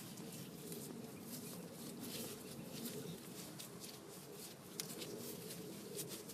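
Faint, irregular small clicks and scrapes of metal parts being handled as the brake hose fitting is threaded into a new rear brake caliper, over a low steady hum.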